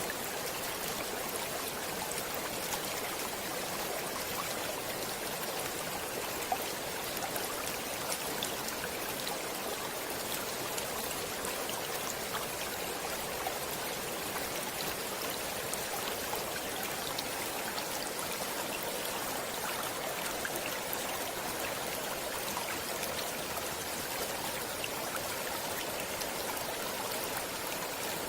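Running water of a stream flowing steadily over rocks, with a constant rush and scattered small splashes and droplet ticks.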